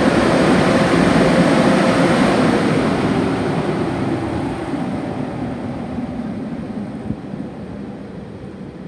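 Automatic car wash equipment running with a loud, steady rushing noise, fading away steadily over the second half.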